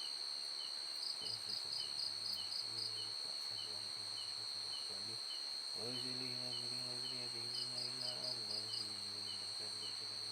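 Night insects, crickets, trilling steadily at a high pitch with short runs of rapid chirps, over a low steady drone that swells about six seconds in.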